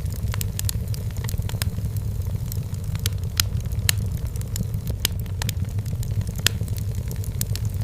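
Wood fire burning in a fireplace, crackling with irregular sharp pops, several a second, over a steady low rumble.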